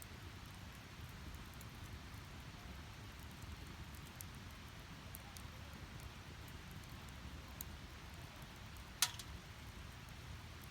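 Wood fire burning in a small steel fire pit: a steady low rush of flames with scattered faint crackles, and one sharp loud pop from the burning logs about nine seconds in.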